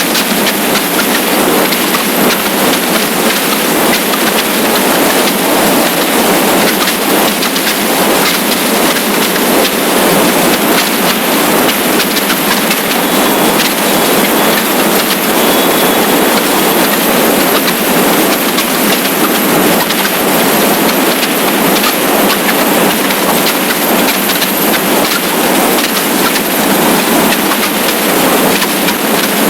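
Steady loud rush of wind and road noise on the camera microphone of a motorcycle riding at speed, with no engine note standing out.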